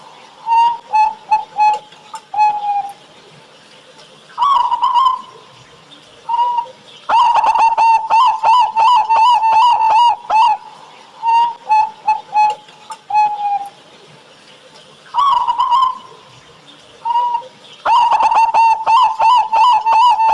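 Zebra dove (perkutut) cooing in repeated phrases. Short spaced notes build into a long, rapid run of coos, twice: once about a third of the way in and again near the end.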